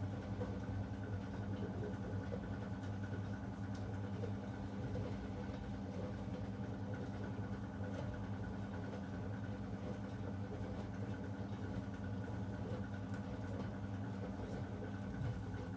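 Zanussi DL22 washing machine running on a 90 °C boil wash, a steady motor hum with a fainter higher tone above it.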